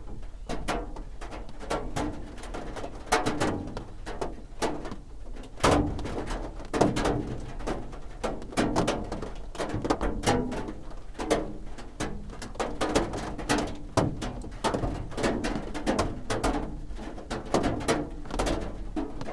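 Raindrops drumming on a roof: a dense, irregular patter of separate taps and knocks, some heavier drops landing louder than others.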